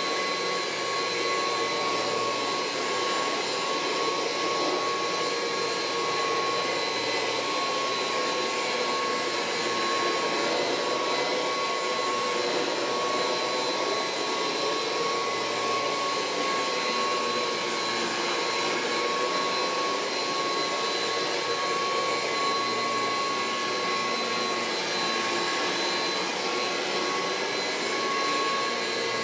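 Kirby Heritage II upright vacuum cleaner running steadily while vacuuming: a constant motor-and-fan rush with a steady high whine, its lower tone wavering slightly as it is pushed about.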